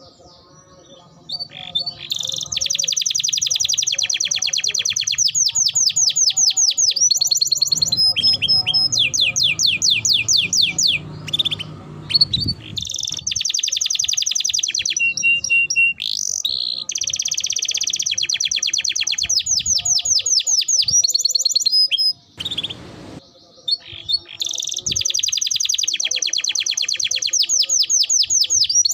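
Domestic canary singing vigorously in long rolling trills, fast runs of repeated high notes, in several phrases separated by short pauses.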